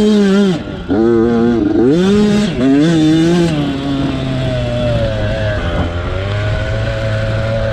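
Motocross bike engines racing: revving hard with the pitch rising and dropping several times through gear changes for the first few seconds, then settling into a steadier, lower drone.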